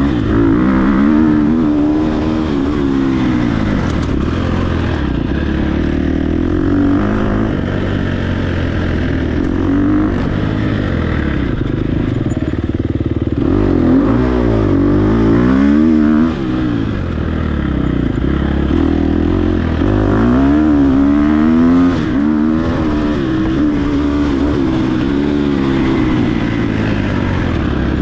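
Off-road dirt bike engine running hard, its pitch rising and falling over and over as the throttle is opened and closed through the gears.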